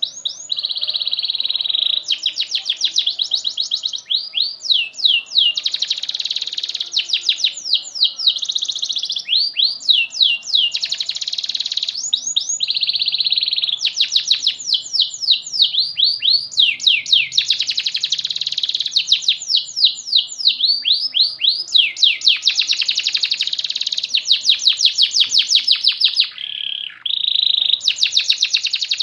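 Domestic canary singing a long, almost unbroken song. Buzzy rolling trills alternate with runs of rapid falling whistles, with one short break near the end.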